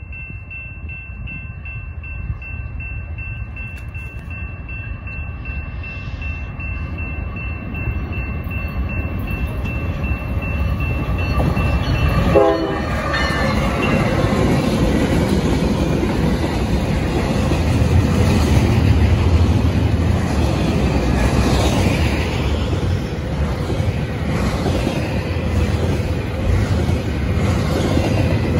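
Grade-crossing bells ring as a BNSF freight train approaches, the train's rumble growing steadily louder. About twelve seconds in, the lead diesel locomotive's horn drops in pitch as it passes close by. The locomotives and double-stack container cars then roll past with a heavy rumble and the clatter of wheels over rail joints.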